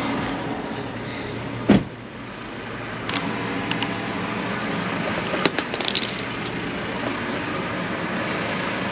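A vehicle engine idling steadily, with a single sharp thump a little under two seconds in and a few short sharp clicks later on.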